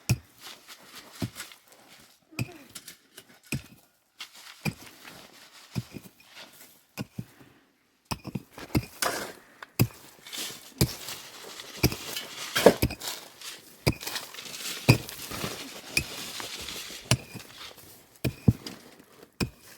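Irregular knocks and clinks of objects being handled, coming thicker and busier in the second half.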